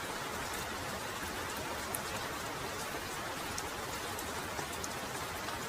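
Heavy rain falling in a steady hiss, with close drops ticking sharply now and then.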